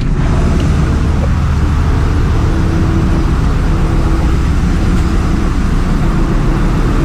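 Ship's engine room machinery running: a loud, steady drone of diesel engines with a low hum. Near the start the higher hiss fills in as the room opens up.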